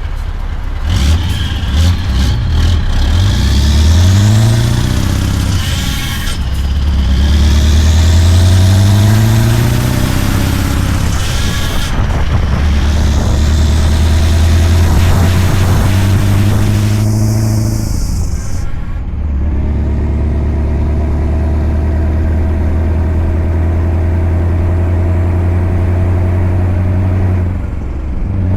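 Scania V8 diesel truck engine pulling under load and working up through the gears. The pitch climbs, drops at a shift and climbs again a couple of times, then the engine settles to a steady cruising note.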